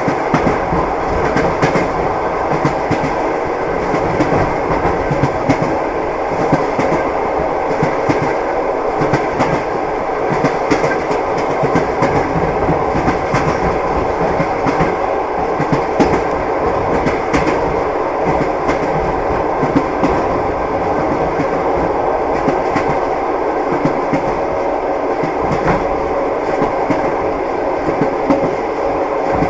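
Passenger train wheels clattering over rail joints, heard from inside the carriage: a steady rolling rumble with frequent clicks running through it.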